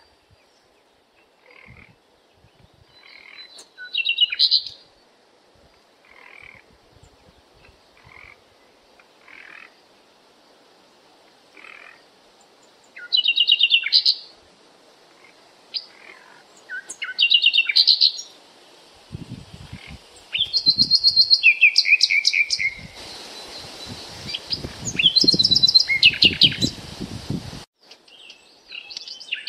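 Birds chirping, in short fast trills repeated every second or two, growing busier and louder toward the end.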